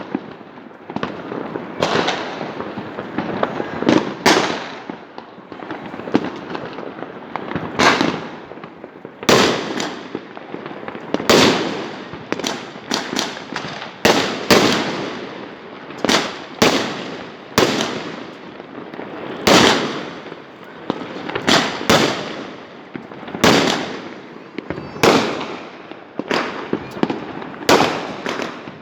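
Fireworks going off: a string of sharp bangs, about one or two a second, each trailing off in a rumbling echo, over steady crackling.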